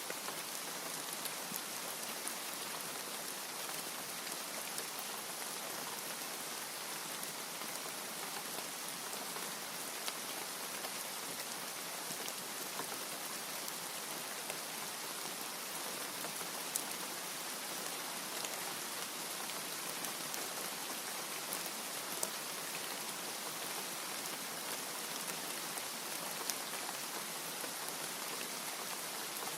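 Steady rain falling, a dense even hiss with scattered individual drops ticking, and no thunder.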